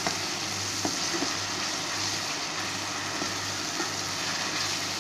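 Onion and ginger-garlic paste sizzling steadily in hot oil in a steel pan, being fried off until the raw smell of the paste goes. A low steady hum runs underneath, with a faint tap about a second in.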